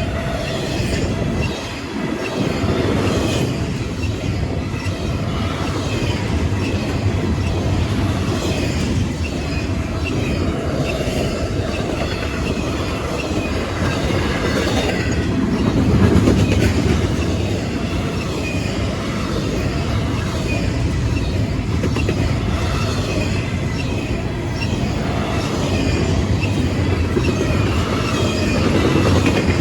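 Cars of a CSX intermodal freight train rolling past continuously and loudly, steel wheels clattering over the rails.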